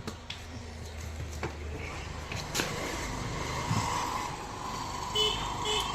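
A few sharp knocks, about four in the first three seconds, from work on a truck tyre, over a steady background rumble. A few short high beeps come near the end.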